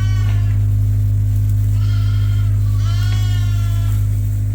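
Sheep bleating in a barn: a call ending just after the start, a short one about two seconds in, and a longer one lasting about a second near the end. A steady low hum runs underneath throughout.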